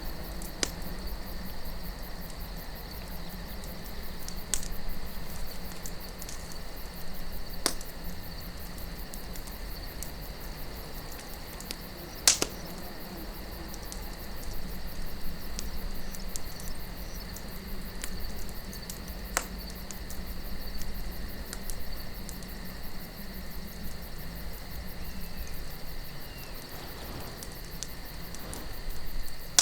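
Campfire burning wood, crackling, with a few sharp pops, the loudest about twelve seconds in, over soft wind and a steady high trill.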